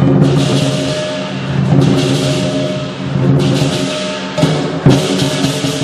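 Lion dance percussion: a big drum beating, with cymbals clashing four times, about every second and a half, over a ringing gong.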